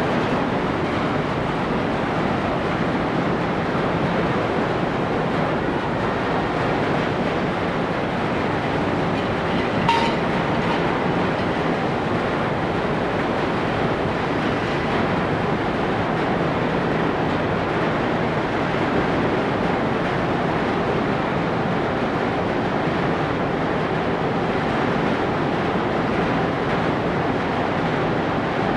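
The passenger ferry Ogasawara Maru's engines and propeller wash make a steady, even rumble as it pulls away from the pier. A single short click sounds about ten seconds in.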